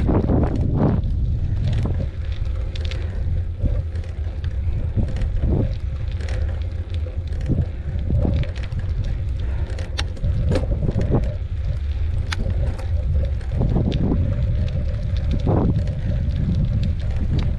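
Wind buffeting the microphone during a bicycle ride, with scattered clicks and rattles from the bike and a faint steady whine.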